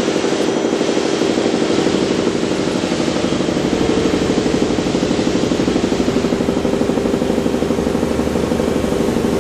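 Femco HL-25 CNC lathe spindle running steadily at about 2,000 RPM, a machine hum with a fast, even pulse. It sounds healthy: a good little runner.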